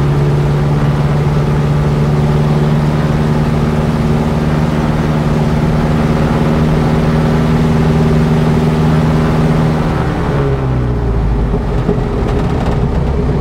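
Lancair 360's four-cylinder Lycoming piston engine and propeller running at a steady high rpm. About ten seconds in the pitch slides down as the engine is throttled back, and it settles at a lower rpm.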